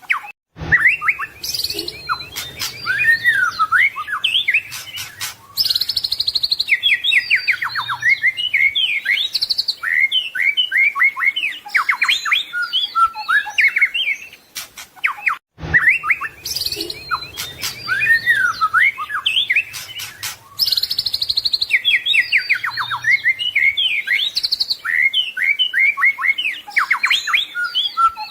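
White-rumped shama (murai batu) singing a fast, varied song of whistles, trills and rapid note runs packed with imitated phrases. A brief gap comes about half a second in, and the same passage repeats after about 15 seconds, as a looped recording does.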